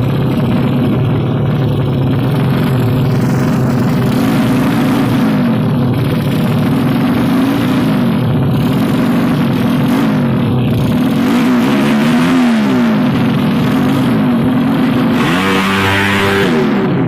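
Tuned Yamaha Jupiter single-cylinder four-stroke motorcycle engines revved hard while standing still, the pitch rising and falling over and over about every two seconds, with one sharper, higher rev near the end.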